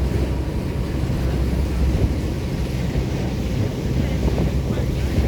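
Wind buffeting the microphone over the steady low rumble of a cruise boat under way.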